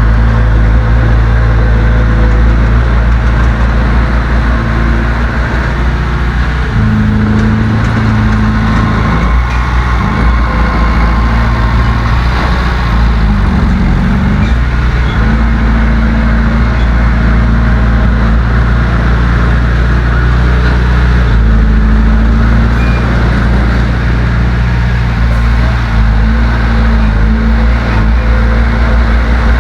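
Heavy diesel engine of earth-moving equipment running loud and continuously, its pitch stepping up about seven seconds in, then dipping and rising again a few seconds later as the throttle changes.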